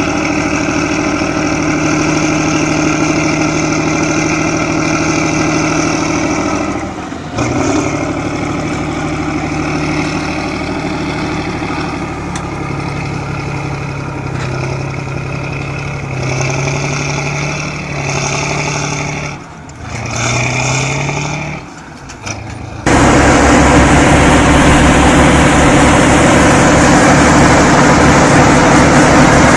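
Vehicle engines running and revving in a series of short cuts, the pitch rising and falling as the throttle changes. Near the end it switches abruptly to a louder, rougher engine rumble.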